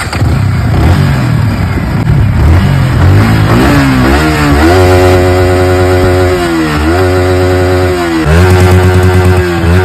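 Motorcycle engine revving. It starts abruptly, climbs over the first four seconds and is held at high revs, dropping back briefly three times, about seven, eight and a half, and nine and a half seconds in, before rising again.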